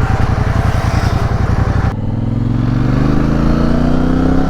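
Triumph Speedmaster 1200's parallel-twin engine running at low revs with a pulsing beat, then from about two seconds in its pitch rises steadily as the bike accelerates.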